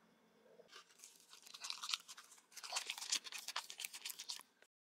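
Crunchy biting and chewing of a waffle, close-miked, in two bouts of about a second and a half each that stop abruptly near the end.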